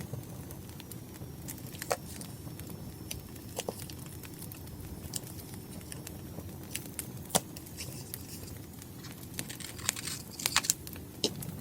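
Wood fire crackling, with scattered sharp pops over a low steady rumble. A short flurry of crisp paper rustling comes about ten seconds in.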